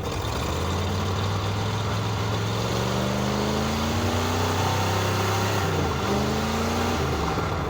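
Jeep engine running, with its revs rising slowly, dropping back about six seconds in, then rising again.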